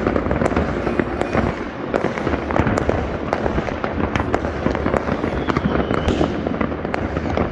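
New Year fireworks going off all around: a continuous barrage of many overlapping bangs and crackles from salutes across the town, with no pauses.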